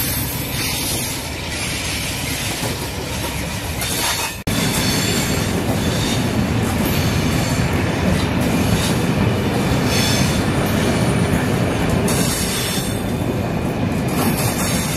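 Diesel-hauled passenger coaches rolling past at low speed as the train pulls out, wheels running over the rails and pointwork on a curve. The sound breaks off for an instant about four and a half seconds in, then comes back louder.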